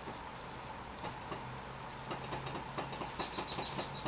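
Steel wool scrubbing an aluminum carburetor body in quick repeated strokes, about four or five a second, rubbing off paint overspray.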